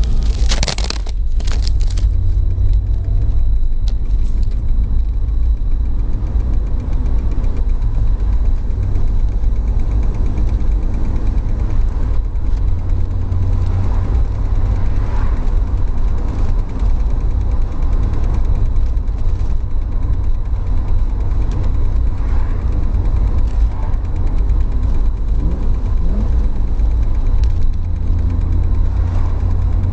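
BMW E30 325i running with a steady low rumble and a rapid, even ticking through it; the owner suspects the transmission, not the engine, as the source of the tick.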